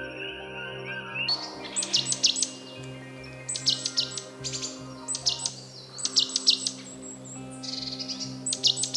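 Birds chirping in repeated bursts of quick, high, short notes, starting about a second in, over a steady ambient music bed of held tones.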